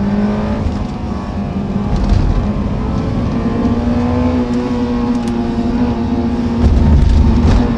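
Honda S2000's four-cylinder engine running under load, heard from inside the cabin; its pitch sags slightly about a second in, then rises and holds steady.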